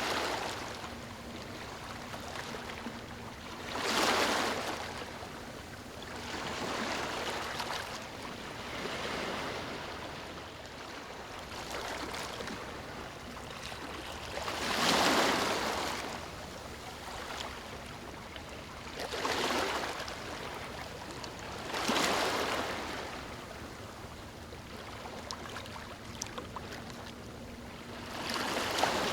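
Small waves lapping on a beach, each one a soft swell of rushing hiss that rises and fades over a second or two, coming every few seconds at irregular intervals over a steady low wash of water.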